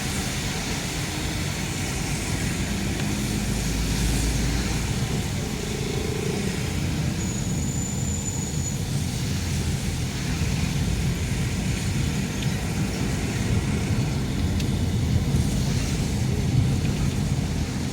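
Steady road noise of a car driving on a wet road in the rain, tyre hiss over a low rumble. A faint high tone sounds briefly about seven seconds in.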